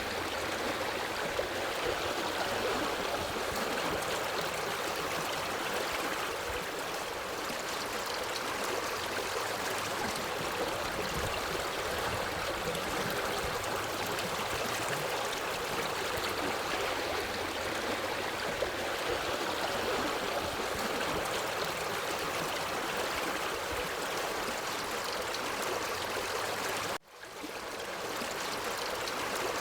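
Forest stream flowing steadily over rocks, a constant rush of water. About 27 s in the sound cuts out abruptly and fades back in over a second or so.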